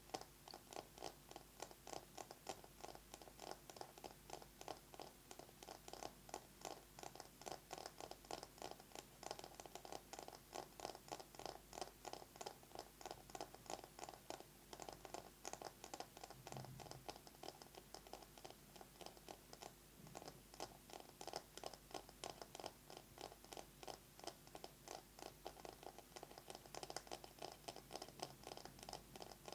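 Fingernails tapping and scratching fast on a bamboo massage brush, a rapid, steady stream of small clicks.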